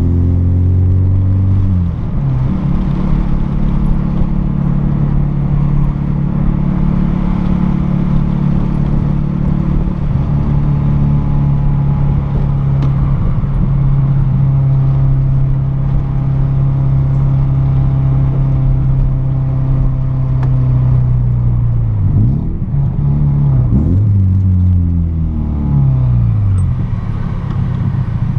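VW Golf Mk3 engine heard through an exhaust with no catalytic converter and no intermediate muffler, only a sport rear muffler, cruising at a steady pitch with a resonant drone. Revs fall in the first couple of seconds, and later two brief drops and pickups in pitch come like gear changes.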